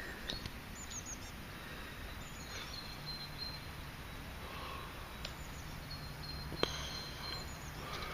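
Open-field ambience: a steady low background rush with faint, short high bird chirps now and then. A single sharp click about six and a half seconds in.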